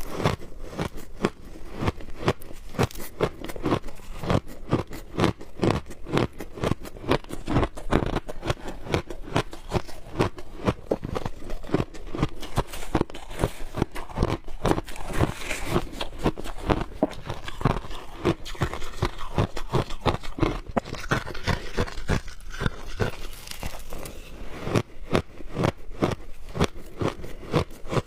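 Frozen shaved ice being bitten and chewed close to the microphone, giving a steady, unbroken run of sharp crunches, several a second.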